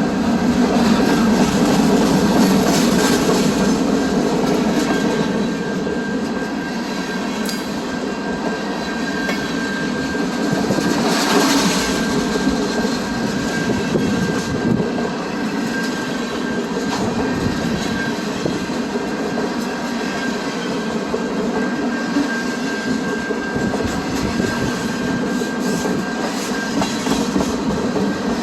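Train rolling past on the rails: a continuous heavy rumble of wheels and cars, with a thin steady high whine held over it and a brief swell about eleven seconds in.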